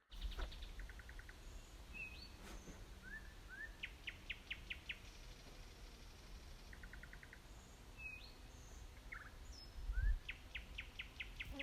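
Nightingale singing at night: a phrase of quick repeated notes, short rising whistles and a run of about six loud, sharp notes, sung twice.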